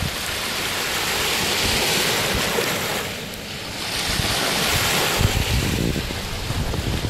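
Lake Huron waves surging and washing in, with a lull about three seconds in before the next wave builds. Wind buffets the microphone with low rumbles.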